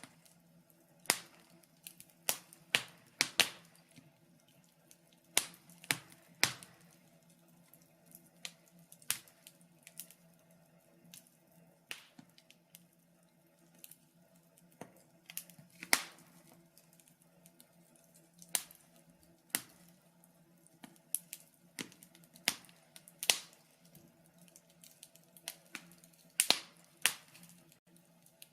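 Wood fire crackling in a fireplace: irregular sharp pops and snaps, a few loud ones among many faint ticks, over a faint steady low hum.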